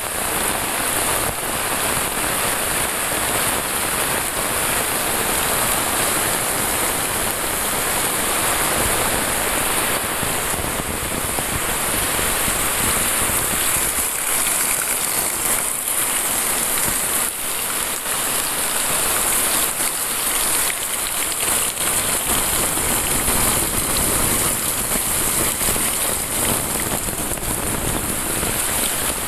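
Heavy rain pouring steadily: a dense, even hiss of drops hitting a concrete path, leaves and roofs.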